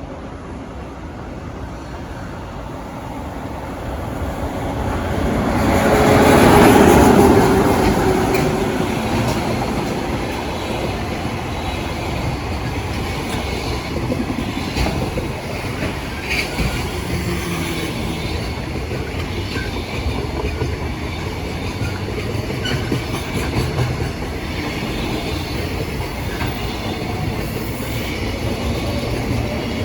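Locomotive-hauled container freight train passing close by: the locomotive's loudest moment comes about six seconds in, then a long, steady run of wagons clattering over the rail joints.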